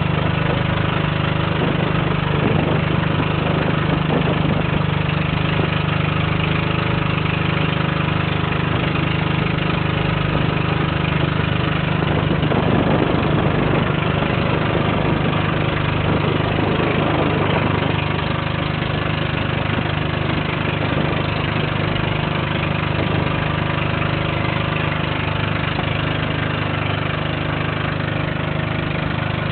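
Boat engine running steadily under way, a constant low drone with rushing noise over it.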